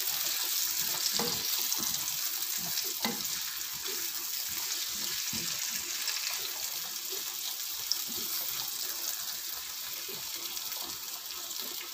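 Pumpkin pieces frying in oil in a pan: a steady sizzling hiss, with a few light knocks and a spatula stirring the pieces near the end.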